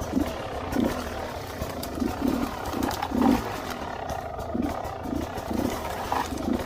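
Trail motorbike engine running and revving in short, repeated bursts, about two a second, over a steady low rumble, as it is ridden along a rough bush track.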